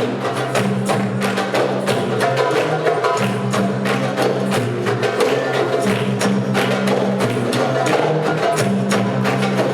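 A group of hand drums, darbukas among them, playing a fast, dense rhythm together over sustained low bass notes that drop out for short stretches.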